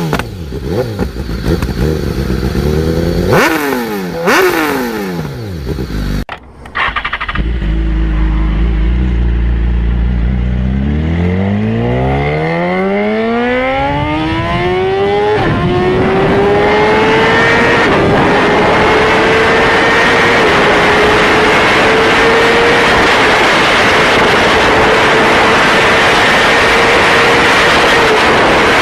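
High-performance motorcycle engine revved in sharp blips for a few seconds. After a cut it runs low, then accelerates hard, its pitch climbing steeply into a high, steady note with brief dips at each upshift.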